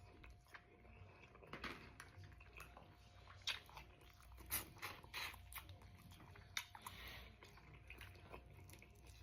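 A person chewing sausage close to the microphone: soft, irregular wet mouth clicks and smacks, a few louder ones in the middle.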